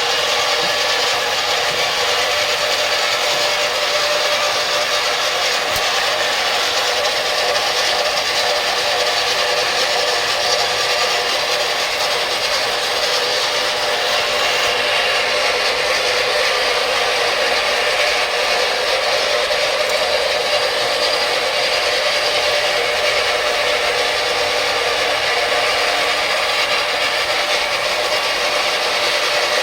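Floor grinding and polishing machine running steadily, a constant whine over a rough grinding noise.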